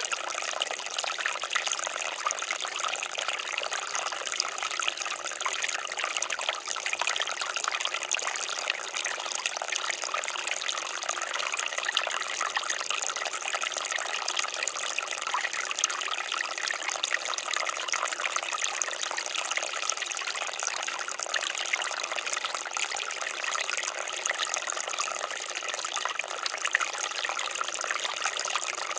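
Water fountain splashing and trickling steadily, a bright, even patter of falling water with no deep rush.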